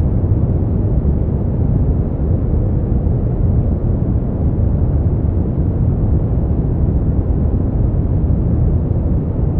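Steady brown noise: an even, deep rumbling hiss, heaviest in the bass and fading out toward the treble, with no changes.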